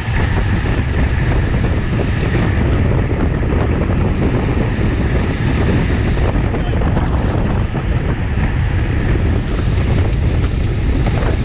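Wind buffeting the microphone of a racing cyclist's camera at speed: a loud, steady low rumble.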